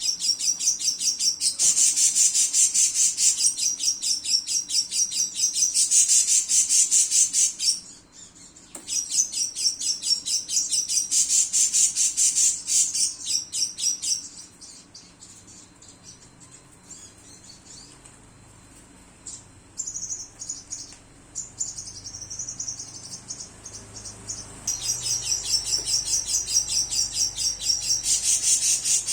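Lovebird singing its long chattering 'ngekek' song: very rapid, high repeated chirps in unbroken runs. A first run lasts about eight seconds and a second about five. Then comes a quieter stretch with scattered chirps, and another long run starts near the end.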